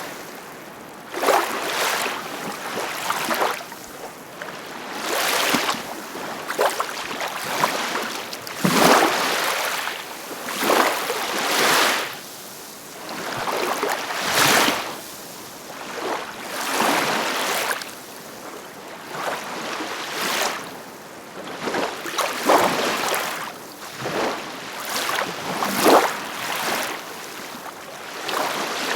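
Ocean waves breaking and washing in. A surge of surf hisses up every second or two and then drains away.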